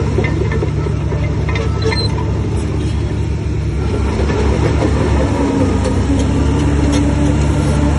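Heavy diesel engine of earthmoving machinery running steadily with a deep, continuous note. A few faint metallic clicks sound over it.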